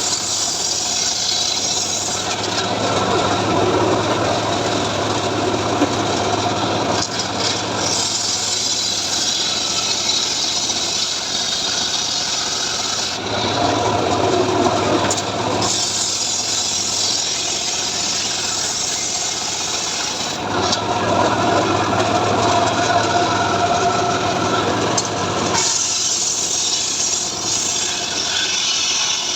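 Homemade engine-driven sawmill ('srekel') running steadily while its saw cuts through mahogany timber. The cutting noise swells for several seconds at a time, three times, over the constant engine hum.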